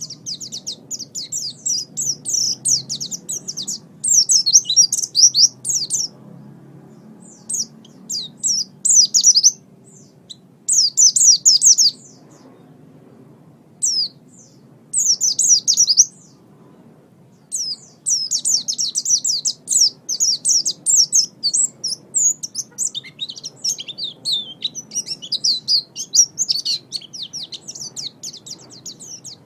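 Pleci (white-eye) singing: rapid, high twittering phrases in short bursts separated by brief pauses, then a long unbroken run of song from about two-thirds of the way in.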